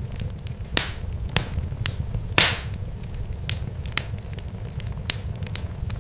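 Fire crackling: irregular sharp pops and ticks, a few louder ones with a short hissing tail, over a steady low rumble.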